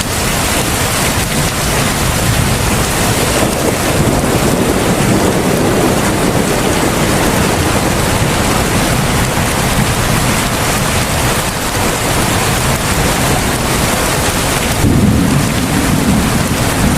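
Heavy rain falling steadily in a dense, even hiss. A low rumble swells underneath about fifteen seconds in.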